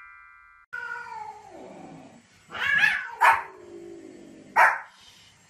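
A long drawn-out cry falling in pitch, tagged as a cat's meow, followed by about three short sharp barks from a small white spitz-type dog.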